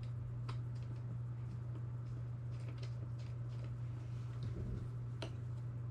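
Scattered faint ticks and light clicks, the sound of small parts being handled, over a steady low hum.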